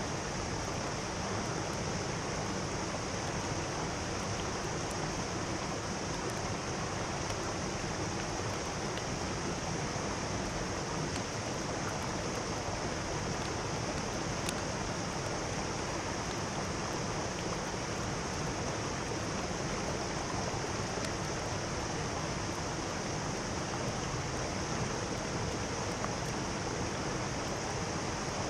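Mountain stream water rushing steadily over rocks, an even, unbroken flow.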